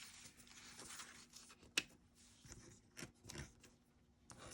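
Faint rustling of paper pieces being handled, with a few light clicks and taps.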